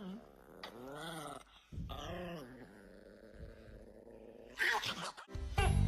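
A dog vocalizing: two drawn-out calls that rise and fall in pitch, one after the other.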